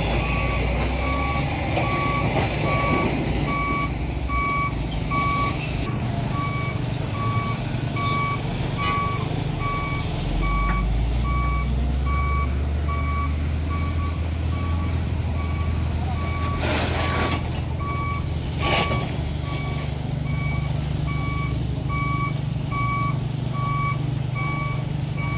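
Truck reversing alarm beeping steadily, about two beeps a second, over a heavy truck's engine running. Two brief bursts of hiss come a little past the middle.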